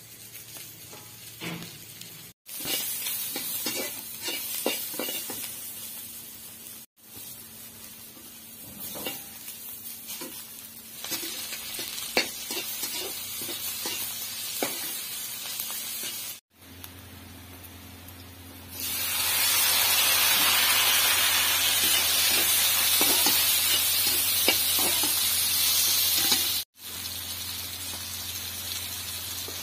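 Vegetables frying in hot oil in a black iron kadai: onions, then tomatoes and green chillies, sizzling while a metal spatula scrapes and clicks against the pan. About two-thirds of the way through, the sizzle becomes much louder and steadier.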